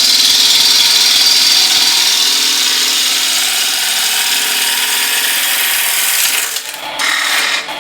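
Gouge cutting a spinning beech blank on a wood lathe at about 1200 RPM: a loud, steady scraping hiss of the cut. The cut lifts off briefly about six and a half seconds in, resumes, then stops just before the end. The gouge is unsharpened, not quite sharp.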